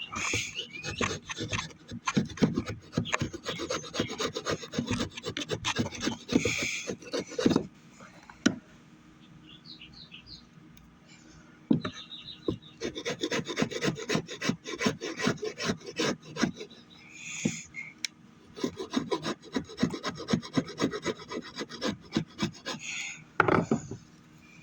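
Oak hammer handle being shaped by hand with quick, irregular scraping strokes, like a rasp or file working the wood. The strokes stop for a few seconds about eight seconds in, then go on.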